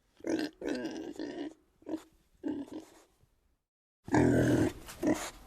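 Pig grunting: several short grunts, then after a brief pause a louder, longer grunt near the end.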